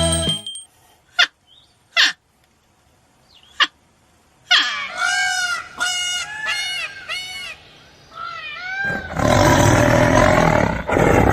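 Animal calls: three brief sharp squeaks, then a quick run of high, arching calls, then a loud, harsh call starting about nine seconds in.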